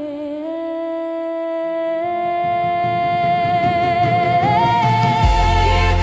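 A song: a solo singing voice holds long wordless notes with vibrato, stepping up in pitch, over soft accompaniment. A deep bass comes in near the end.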